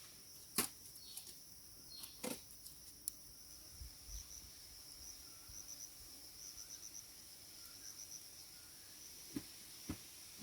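Faint, steady insect chirping with short rapid pulse trains, typical of crickets, and a few sharp clicks or knocks scattered through it.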